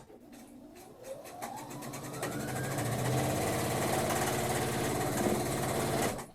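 Electric sewing machine stitching a seam: the motor speeds up with a rising whine over the first two seconds or so, runs steady with rapid needle strokes, then stops abruptly near the end.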